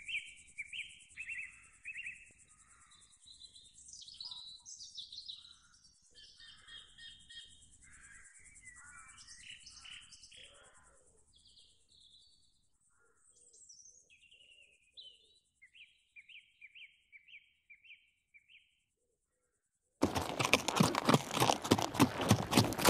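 Wild birds chirping and calling in many short, varied notes, ending with a run of about six repeated chirps. About twenty seconds in, after a brief quiet gap, a loud rapid thudding starts abruptly.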